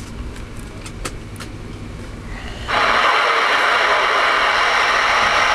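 A few sharp clicks, then about two and a half seconds in a CB radio's receiver opens with a sudden, steady hiss of static through its speaker, which keeps on.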